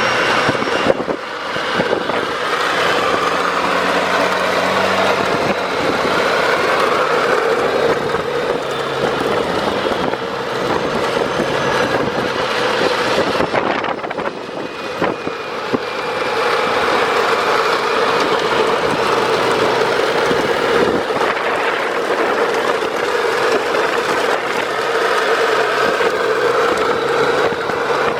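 Hard plastic wheels of PlasmaCar ride-on toys rolling fast down pavement: a steady rolling rumble with a whine that wavers up and down with speed.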